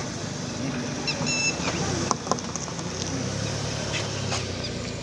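Motor vehicle running, a steady low engine and road noise, with a few sharp clicks and a short high-pitched beep about a second and a half in.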